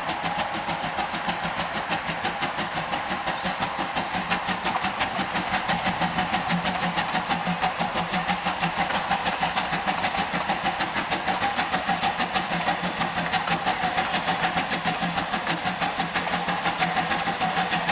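Steam locomotive C12 66 working under steam, its exhaust beating in a fast, even rhythm of about six chuffs a second, over a steady hiss.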